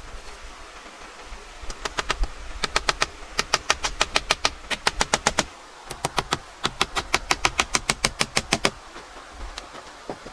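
Hammer tapping quickly on nails in wood, about five sharp strikes a second, in two runs of a few seconds each with a short pause between.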